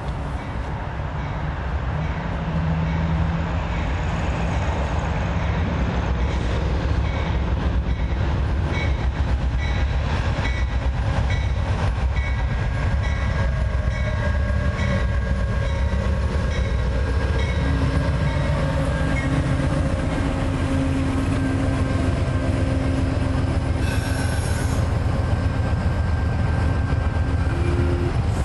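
Passenger train approaching and starting to pass close by: a heavy, steady locomotive rumble and rail noise that build over the first few seconds and then hold loud, with faint steady tones running over the noise.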